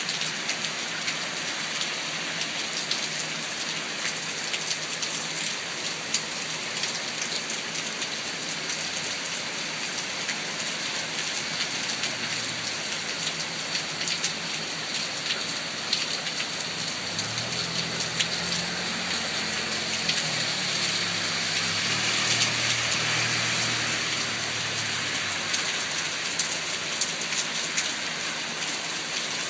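Steady rain falling, with many separate drops ticking sharply close by. Midway a low hum swells for several seconds and then fades.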